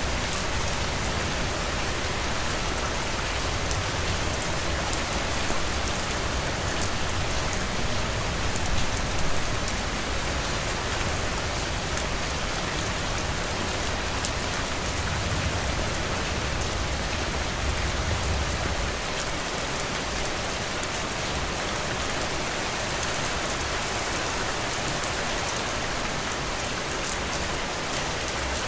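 Heavy rain falling steadily, an even hiss full of fine droplet ticks. A low rumble underneath fades away about two-thirds of the way through.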